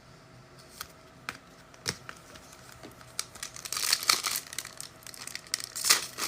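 Foil wrapper of a pack of football trading cards crinkling and tearing as it is handled and ripped open: a few light clicks at first, then denser crinkling from about halfway, loudest near the end.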